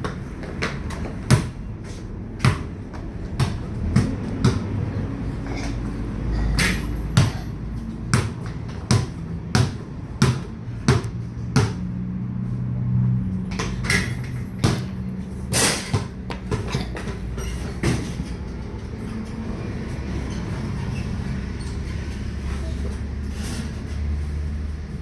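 Irregular sharp knocks and taps, one to three a second with pauses, over a steady low rumble.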